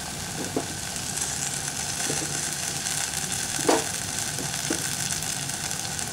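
Mint leaves, shallots and tomatoes frying in oil in a steel pan, a steady sizzling hiss, with a few light knocks, the loudest about three and a half seconds in.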